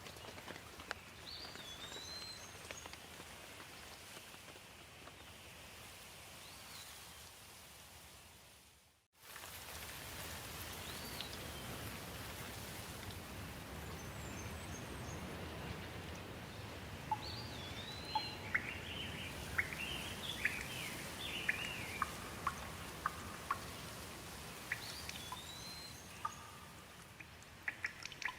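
Steady rain with birds calling now and then, a short up-and-down chirp repeated several times and a run of quick chirps in the second half. The sound cuts out briefly about nine seconds in, then the rain resumes.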